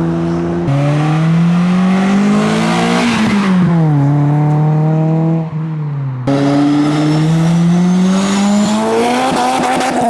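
A car engine accelerating hard, its revs climbing and then dropping at a gear change about three seconds in. It pulls again with a faint high whine rising alongside and shifts up near the end.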